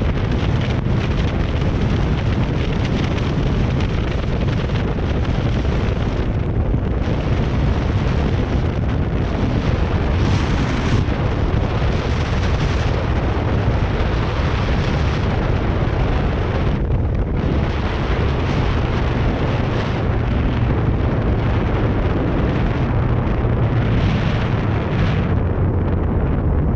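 Heavy wind buffeting the microphone of a camera on a moving motorcycle, a loud steady rumble with gusty rushing noise over it.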